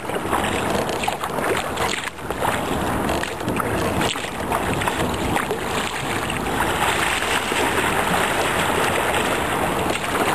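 Fast, turbulent river water rushing and splashing steadily around a sea kayak as it is paddled through choppy, squirrely current.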